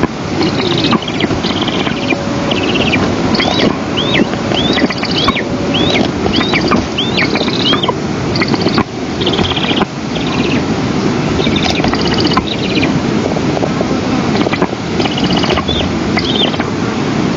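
Wind rushing over the nest-camera microphone. Through it, a bird gives a series of about eight short, high, hooked call notes, roughly two a second, and at several points bursts of fast, buzzy high chatter.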